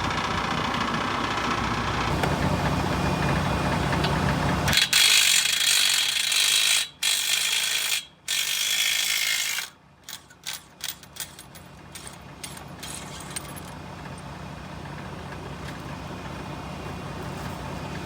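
A diesel truck engine idling, then an impact wrench running lug nuts onto new truck wheels: several long runs, then a string of short bursts as the nuts are snugged down.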